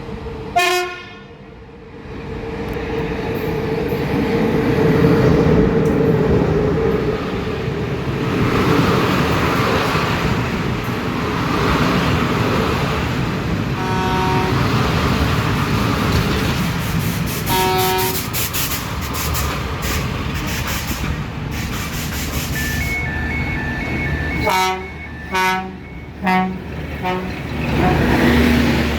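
A train running through the station with its locomotive horn sounding: one short blast at the start, two more about halfway through, and a cluster of short toots near the end. Just before the toots comes a high two-note beeping.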